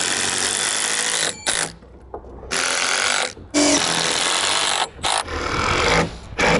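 Power driver, likely an impact driver, running in four or five bursts of one to two seconds each with short pauses between, driving fasteners into a roof panel.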